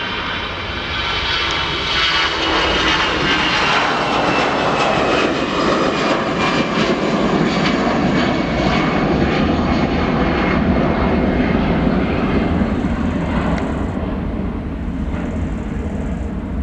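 Airbus A319 jet engines at take-off thrust, the aircraft rolling and climbing away: loud turbofan noise with high whining tones that slide down in pitch as it passes, the deep rumble growing over the later part.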